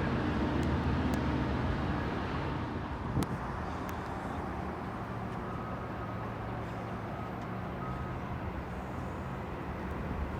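Train rumble fading over the first three seconds into a steady low hum, with one sharp click about three seconds in.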